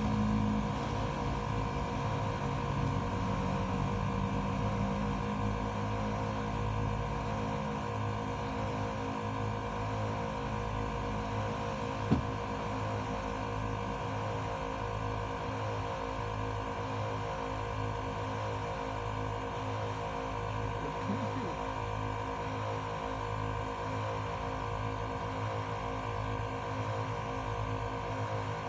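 ARB dual air compressor running steadily under load, inflating a tire, with a steady hum. A single sharp click about twelve seconds in.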